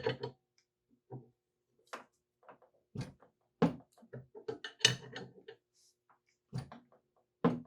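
Scattered knocks and clicks of hand tools and metal parts being handled on a workbench while a water pump is taken apart in a vise, about eight short separate hits.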